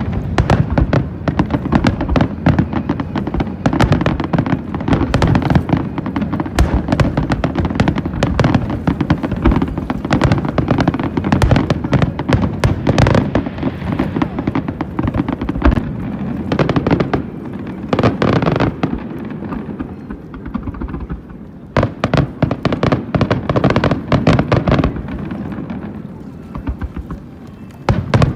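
Aerial fireworks display: dense volleys of bangs and crackling shells, one after another, easing into brief lulls about twenty seconds in and again near the end.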